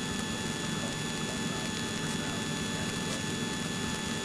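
Steady drone of a small private aircraft's engine in flight, heard from inside the cabin.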